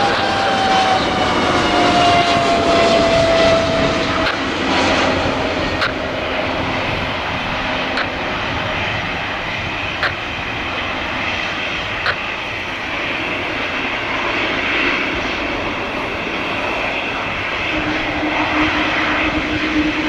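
Airliner engines running loud and steady, with a high whine falling in pitch over the first few seconds as the aircraft passes. A few sharp clicks come about two seconds apart in the middle.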